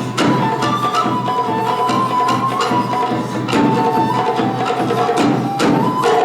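Japanese taiko drums played live in a rhythmic pattern, with sharp wooden-sounding strikes and a high melodic line that steps up and down over the drumming.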